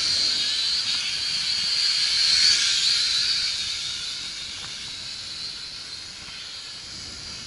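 Syma X5C quadcopter's small motors and propellers whining in flight, high-pitched with a wavering pitch, loudest in the first three seconds and then fading.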